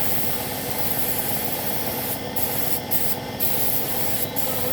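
Compressed-air paint spray gun hissing steadily as paint is sprayed onto motorcycle body panels; the hiss breaks off briefly several times in the second half as the trigger is eased.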